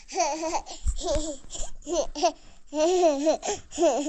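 A young child babbling and laughing in short, high-pitched vocal bursts.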